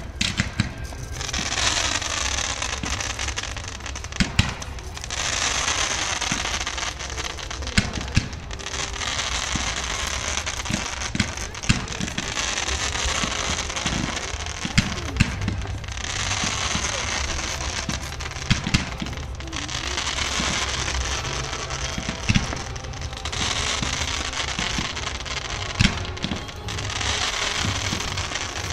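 Fireworks display: a run of long crackling, hissing bursts, each lasting a few seconds with short gaps between, punctuated by sharp bangs.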